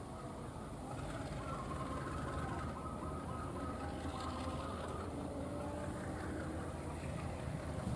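Train running, a steady low rumble with a faint whine in it.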